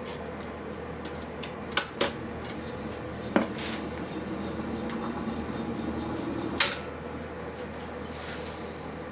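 1940s wire recorder running with a steady mechanical hum, with four sharp clicks from its controls being worked.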